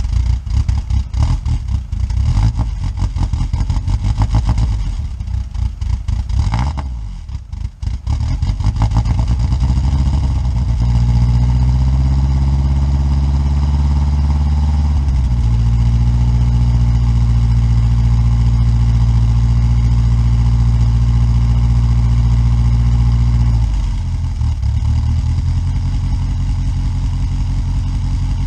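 Dodge Avenger engine cold-started after sitting about six months: it cranks and sputters unevenly, catches about eight seconds in, and runs at a fast idle. The idle then settles lower and steady, with a brief dip near the end.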